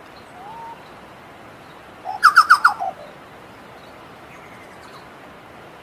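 Chucao tapaculo singing: a quick burst of about five loud notes, the last ones falling in pitch, about two seconds in, after a single faint note.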